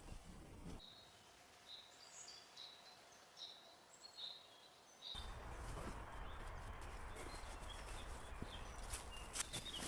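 Small birds chirping in short, high calls in a quiet forest. About five seconds in, a steady low background rumble comes in, and a few sharp clicks follow near the end.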